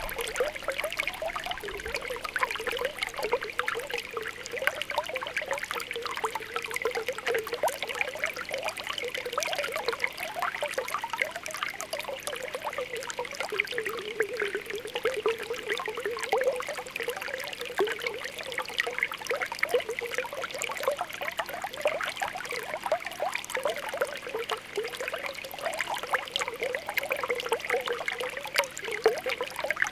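Spring water welling up from the ground, making a continuous mass of small popping and bubbling sounds, with a trickle of water running over them.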